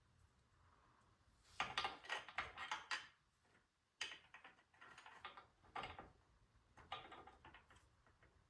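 Small metal drum-brake parts and hand tools clicking and rattling in three short bouts of handling, during the fitting of new rear brake shoes.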